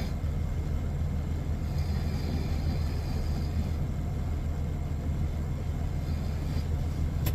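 Truck engine running with a steady low rumble, and a short sharp click near the end.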